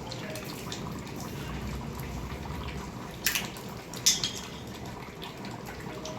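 Steady watery hiss with two short, sharp knocks about three and four seconds in.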